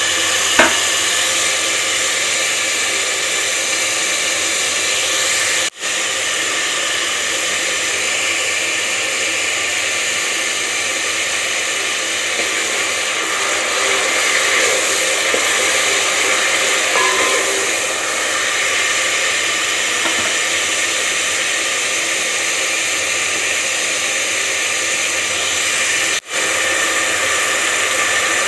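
Ground tomato and onion frying in hot oil in a pot, a steady sizzle with one sharp click about half a second in. The sizzle drops out briefly twice.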